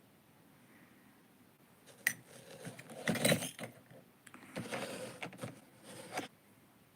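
Small hard objects being handled and set down: a sharp click about two seconds in, then clinking and rattling in two spells, the second stopping about six seconds in.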